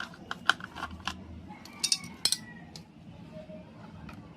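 Sharp clicks and clinks of small hard parts being handled, as a solar light's casing and battery are worked on. They come in quick succession, with a short metallic ring at about two seconds, then stop about halfway through.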